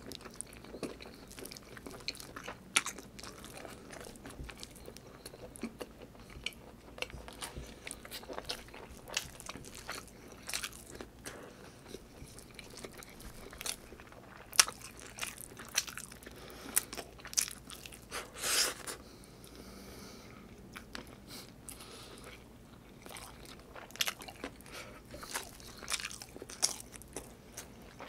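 Close-miked eating: a man chewing and biting chicken adobo and rice, with wet mouth clicks and lip smacks every second or so, and one longer, louder mouth sound about two thirds of the way in.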